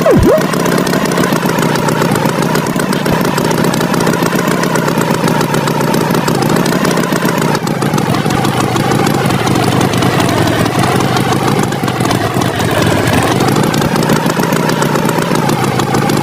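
Tractor engine running steadily at idle, a continuous cartoon engine sound effect. A quick falling swoop sounds right at the start.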